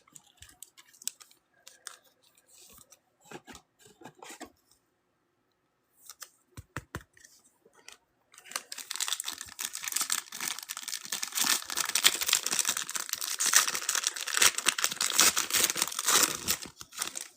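A foil trading-card pack wrapper being torn open and crinkled. A few soft clicks and handling taps come first; about eight seconds in, a dense crackling tear begins and lasts almost to the end.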